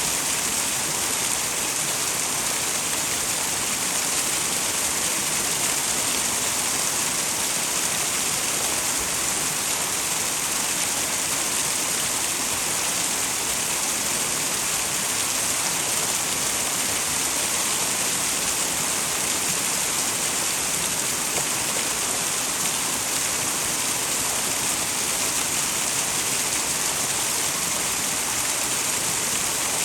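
Small twin waterfall on a mountain stream, water pouring and splashing in a steady, unbroken rush with a bright hiss.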